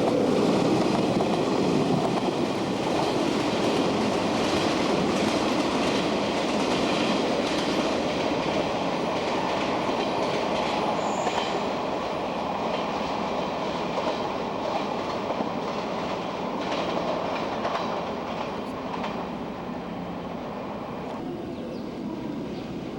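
203 series electric train running on the rails, its wheels clicking over the rail joints, the sound slowly fading.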